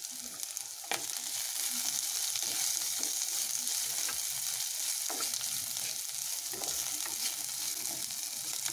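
Sliced onions, curry leaves and garlic sizzling in hot oil in a kadai, stirred with a spatula. A knock about a second in, after which the sizzle is louder.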